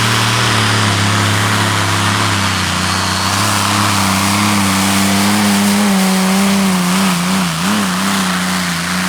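Modified pulling tractor's Allison V12 aircraft engines running hard under full power with a loud, steady drone. Its pitch wobbles up and down about six to eight seconds in.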